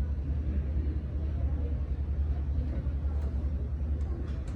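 Steady low rumble under a faint even noise, with no distinct events.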